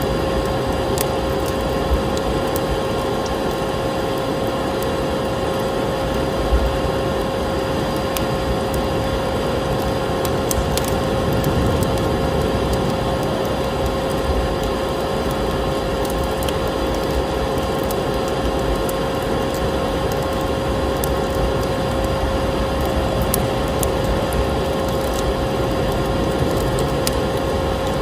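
Vacuum cleaner motor running steadily with an even whooshing hum and a constant whine, layered with the scattered crackles and pops of a wood fire.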